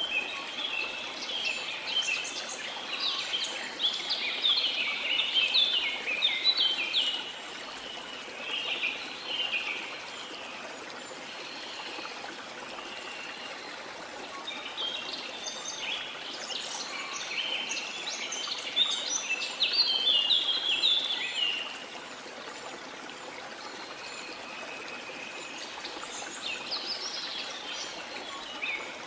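Birds singing in runs of rapid chirping notes, over the steady rush of a waterfall. The birdsong comes in three spells: through the first third, again around the middle, and near the end.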